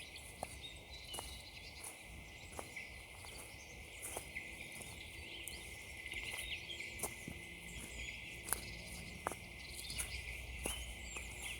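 Footsteps crunching on frozen woodland ground: sharp, irregular crunches. Faint birds chirp in the background throughout.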